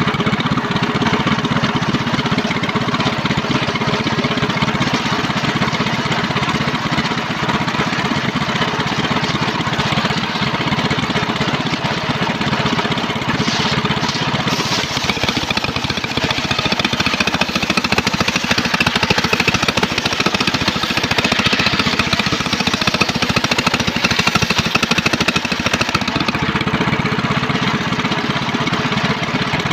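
Engine-driven circular sawmill running steadily while its blade cuts through trembesi (rain tree) wood, the sound shifting a little partway through.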